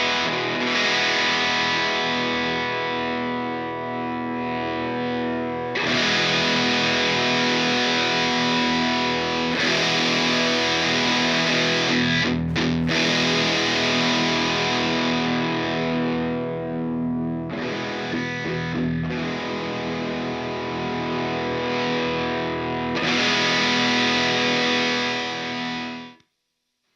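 Electric guitar through a current-production ProCo RAT2 distortion pedal, sustained distorted chords ringing out while the pedal's controls are turned. The treble brightens and darkens several times. The sound cuts off sharply near the end.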